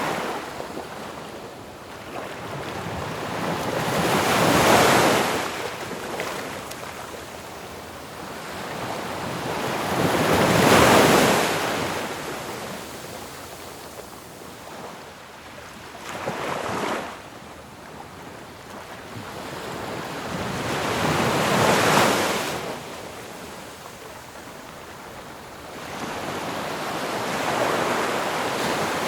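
Ocean waves breaking on a shore: a steady wash of surf that swells into a crash roughly every five to six seconds and then falls back.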